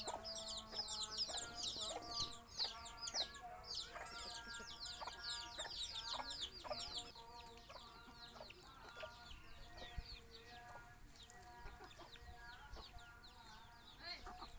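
Chickens clucking in short, repeated calls, under a dense chatter of quick, high, falling chirps that is loudest in the first half and thins out after about seven seconds.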